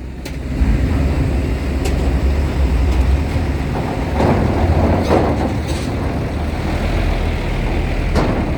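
Heavy trucks and buses running close by with a loud, deep engine rumble, swelling a few times in the middle, with a few sharp knocks.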